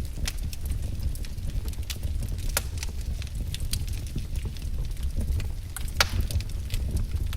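Firewood crackling in a fire: irregular sharp pops and snaps over a steady low rumble, with one louder pop about six seconds in.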